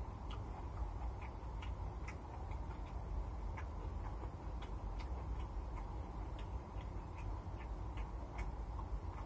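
Wet chewing clicks and lip smacks of someone eating rice and stir-fried water spinach by hand, irregular, several a second, over a steady low hum.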